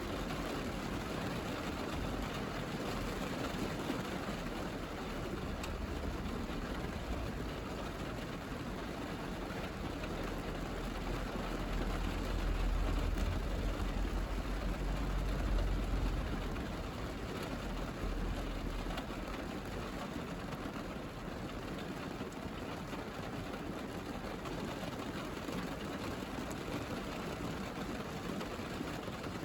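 Rain falling on a car's roof and windscreen, heard from inside the cabin as a steady hiss over a low rumble that swells for a few seconds midway.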